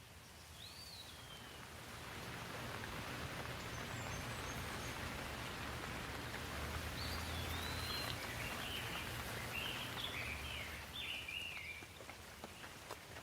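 Steady rainfall that grows heavier about two seconds in and eases off near the end, with birds chirping over it several times.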